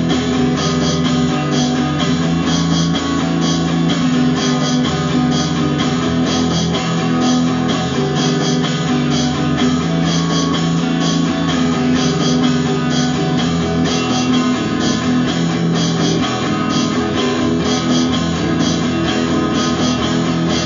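Instrumental rock music: guitars and bass playing a steady strummed passage with a regular beat, no singing.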